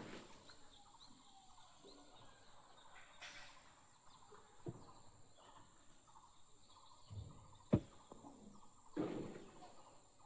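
Faint outdoor ambience with small bird chirps and a handful of dull knocks, the sharpest about three quarters of the way through, followed by a short rustling burst near the end.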